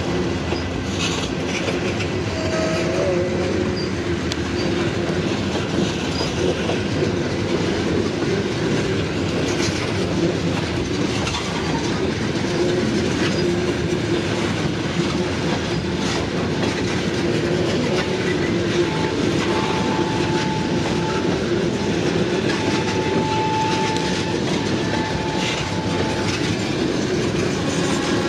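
Train rolling past at close range, its wheels clacking steadily over the rail joints, with a thin squealing tone from the wheels at times.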